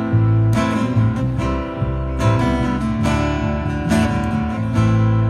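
Instrumental break on acoustic guitar: chords strummed in a steady rhythm, no singing.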